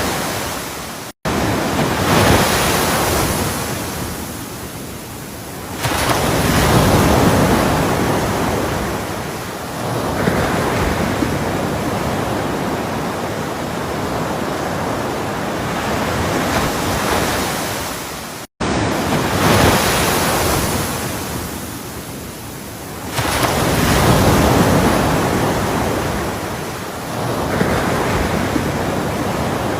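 Ocean surf: waves breaking and washing in, the rush swelling and easing every few seconds. The sound cuts out for an instant twice.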